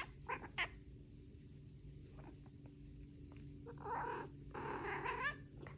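Domestic cat making two soft, short meows close together about four seconds in, the second ending in a brief rise in pitch.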